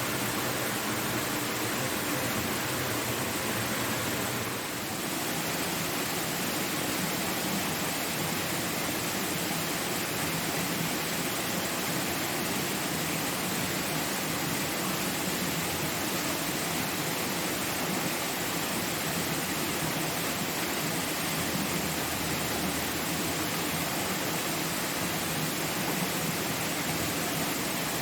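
Steady rush of a waterfall, an even hiss of falling water with a brief small dip about four and a half seconds in.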